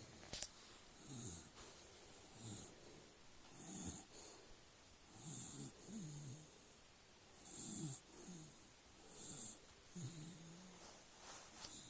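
A dog snoring in its sleep, a rough low snore on each breath, about one every second and a half. There is a sharp click about half a second in.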